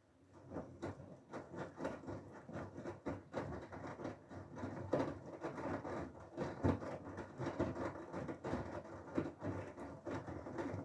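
Whirlpool FSCR90425 washing machine drum turning, with wet laundry and water sloshing and flopping inside in quick irregular splashes. It starts abruptly and stops abruptly after about ten seconds, one tumble of the Synthetics 40°C wash.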